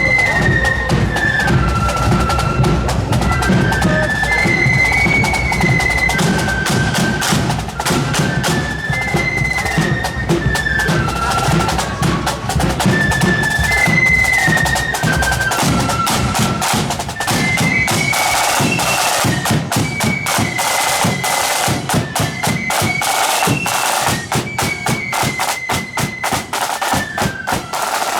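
Marching flute band playing a tune: a high flute melody over snare drums and a bass drum. The bass drum is heavy for the first half, and the snare drumming grows denser and brighter about halfway through.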